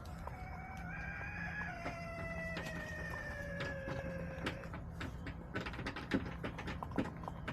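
Rooster crowing: one long crow of about four and a half seconds that falls in pitch toward its end, followed by a run of short sharp clicks and taps.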